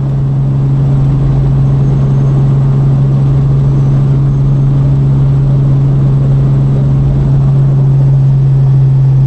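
Loud, steady engine drone with a constant low hum and a rushing noise, unchanging in pitch, that cuts off abruptly at the very end.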